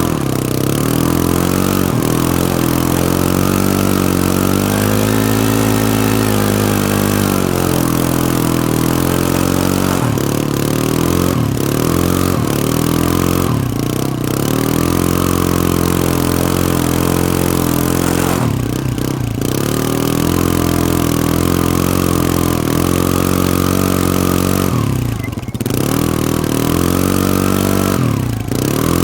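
Can-Am ATV engine running under load, its pitch dropping sharply and climbing back again every few seconds as the throttle is let off and opened up.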